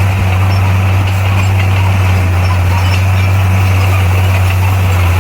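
Bulldozer's diesel engine running steadily with a constant low drone, no change in revs.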